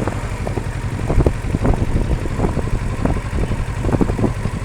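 Kawasaki Versys 650's parallel-twin engine idling steadily, the stationary idle of the check-engine-light reset cycle. Wind buffets the action camera's built-in microphone in short, irregular thumps.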